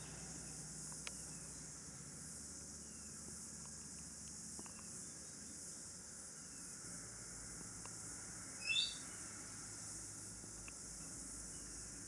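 A bird gives one short, high chirp about two-thirds of the way in, over a faint steady hiss. A few fainter, far-off chirps and small ticks come and go.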